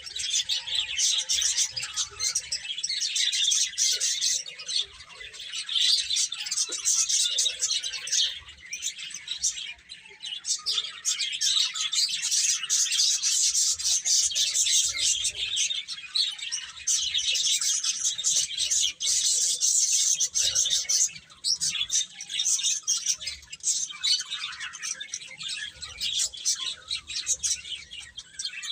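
A group of baby chicks peeping constantly, many short high chirps overlapping one another.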